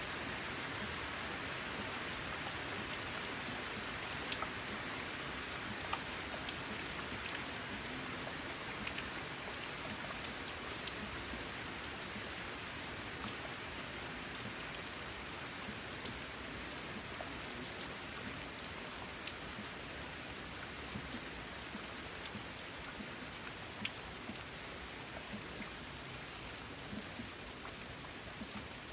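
Steady rain falling on a corrugated metal (zinc) roof: an even hiss with scattered sharp drop ticks, easing slightly toward the end.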